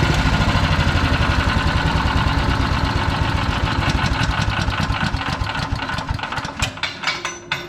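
PowerMate wood chipper's 212cc single-cylinder engine running steadily, then shut off: its firing slows over the last few seconds and it coasts to a stop with a few widely spaced clicks near the end.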